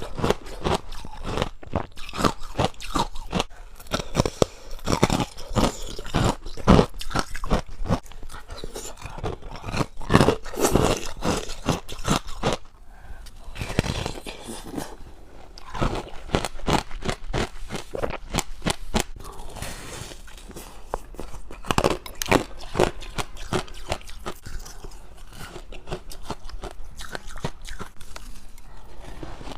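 Close-up chewing of frost ice: dense, irregular crunching, one bite after another, with a short lull about halfway through.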